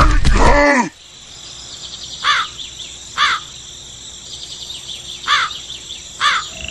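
Four short, harsh crow-like caws over a steady high insect or cricket drone. A loud sound that falls in pitch cuts off under a second in.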